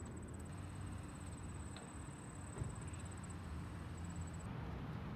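Total body enhancement machine (red light and vibration) running: a low steady hum with a thin, high, rapidly pulsing whine that stops about four and a half seconds in.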